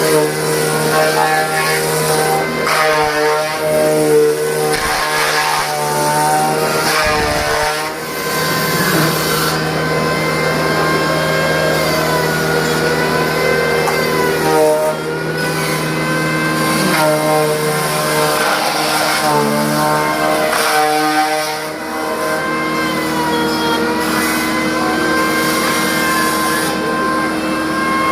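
Wood-Mizer bandsaw sawmill running: a steady machine drone with a higher whine that wavers up and down in pitch.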